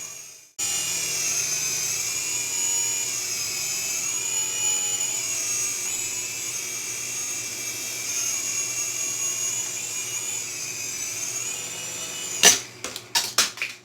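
Syma Speed S5 toy RC helicopter's small electric rotor motors whining steadily in flight, the pitch wavering slightly. A few sharp knocks near the end.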